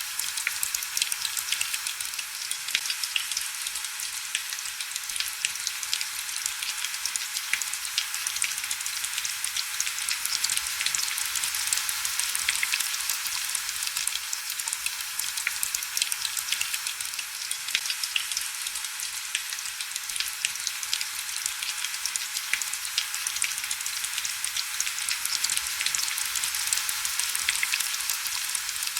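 Steady heavy rain: a dense, even hiss of drop patter full of fine crackling ticks, thin and high with almost no low rumble.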